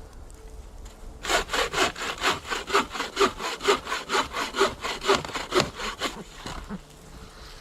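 Hand saw cutting through wood in quick, even back-and-forth strokes, about four a second. It starts about a second in and stops near six seconds.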